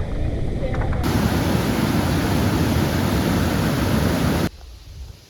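Low wind rumble on the microphone, then a sudden, loud, steady hiss of a heavy downpour that cuts off abruptly near the end.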